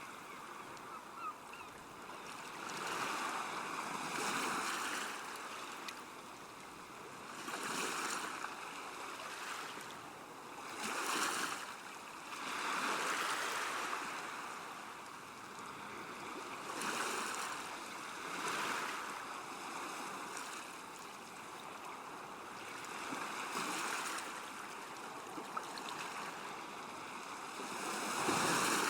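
River water lapping and splashing against a bank, a steady wash that swells and falls every few seconds.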